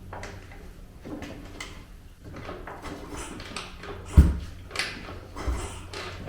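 A 212cc engine swapped into a Honda CT70 being kickstarted: clunks and clatter from the kickstarter, with a heavy thump about four seconds in and a smaller one about a second later, and the engine not firing.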